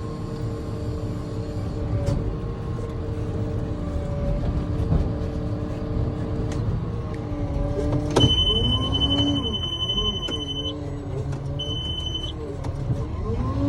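Garbage truck's engine running steadily. About two-thirds of the way through, a steady high tone sounds for a couple of seconds and again briefly, while the lower engine sound wavers up and down in pitch.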